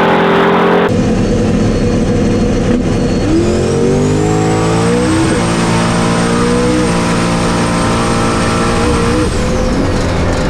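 Race truck engine running hard. Its pitch climbs about three seconds in and holds, with a thin high whistle rising over it, then both drop away near the end as the truck backs off.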